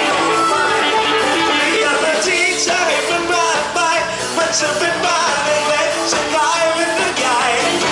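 A song with a singer over a full band, in an upbeat rock-and-roll style.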